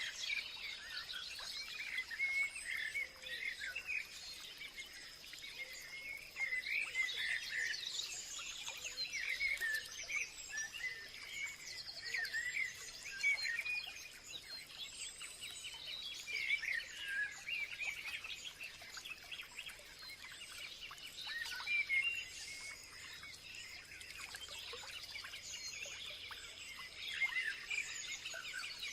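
Several songbirds chirping and warbling in overlapping short calls, over a steady thin high-pitched tone.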